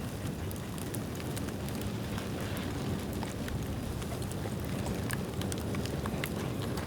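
Bamboo bonfire burning: a steady low rush of flames with frequent sharp crackles and snaps from the burning bamboo and its branches.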